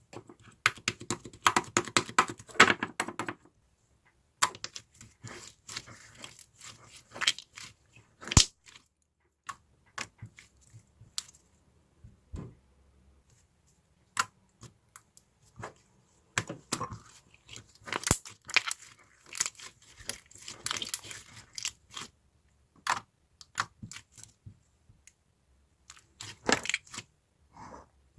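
Slime being squeezed, stretched and poked by hand, making bursts of wet crackling and clicking pops with a few sharp single snaps between short pauses.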